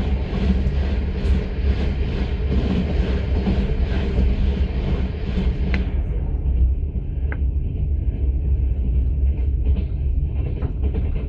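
Moving passenger train heard from inside a platzkart sleeping car: the steady low rumble of the carriage's wheels and running gear on the rails. A higher rushing noise over it drops away about six seconds in, leaving the rumble and a few faint ticks.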